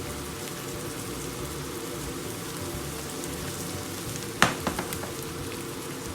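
Diced onion and garlic sizzling steadily in hot oil in a pan, with a sharp knock about four and a half seconds in followed by a few lighter clicks.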